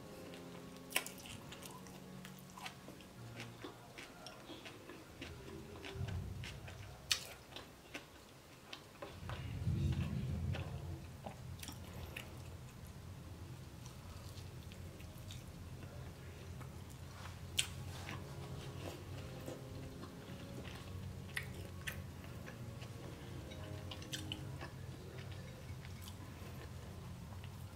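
Close-miked chewing and biting of a homemade beef burger with bacon and lettuce, with many sharp, wet mouth clicks and smacks.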